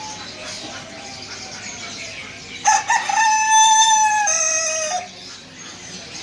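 A rooster crows once, about two and a half seconds in: a single call of about two seconds that drops in pitch at the end. Small birds chirp throughout.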